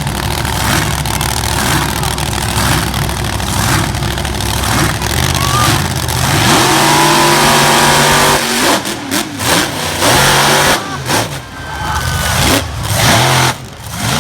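Monster truck engine revving hard, its pitch sweeping upward about six seconds in, then a run of sharp throttle blips with quick drops in level over the last several seconds.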